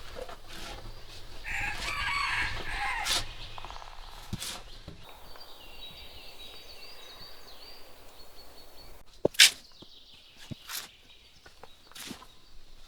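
A rooster crows once, starting about a second and a half in and lasting about a second and a half. Scattered sharp clicks and knocks follow, the loudest a single sharp knock a little past the middle.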